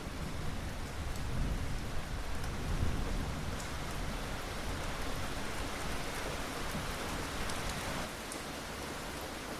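Steady rain falling, with a low rumble of thunder in the first few seconds that dies away.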